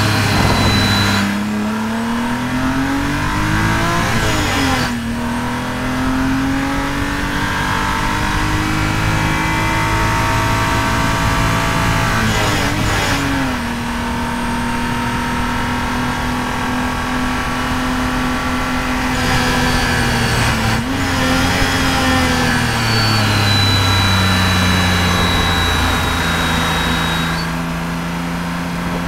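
Supercharged BMW E46 M3's straight-six running hard on track: revs climb under full throttle, drop sharply at upshifts about five and thirteen seconds in, hold steady, then fall away after about twenty-two seconds before rising again near the end. A thin high supercharger whine rides over the engine at the start and again in the last few seconds.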